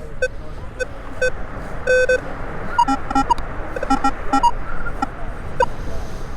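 Metal detector sounding short beeping tones over a buried target. The beeps are lower-pitched for the first two seconds, then higher from about three seconds in. The detectorist takes the target for a bottle cap or an aluminum can.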